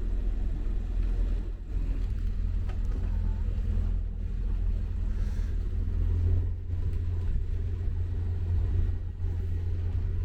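Hire cruiser's inboard engine running steadily while under way, heard on board as a low, even drone.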